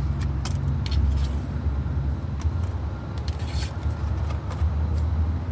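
Tarot cards being shuffled and drawn, scattered light clicks and snaps, over a steady low rumble.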